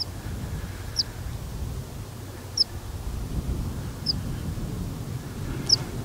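A bird repeating a short, high call that falls in pitch, five times, about one every second and a half, over a low rumble of wind on the microphone.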